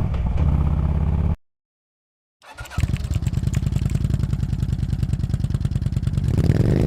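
Harley-Davidson V-twin motorcycle engine running with a rapid, even exhaust beat. It cuts out completely for about a second, comes back, and rises in revs near the end.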